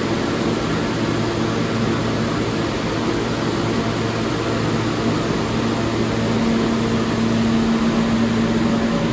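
Steady hiss and low electrical hum of an R143 subway car's ventilation and onboard equipment. The hum grows a little louder about six seconds in.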